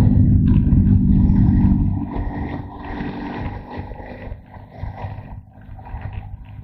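Motorcycle engine running steadily, then dropping to a quieter, uneven note about two seconds in.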